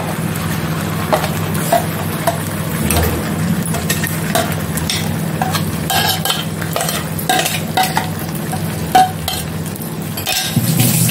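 Wet black masala paste (kala vatan) sizzling as it fries in hot oil in a pan, with scattered short pops and clicks over a steady low hum. The paste is being fried down until its water cooks off and the oil separates.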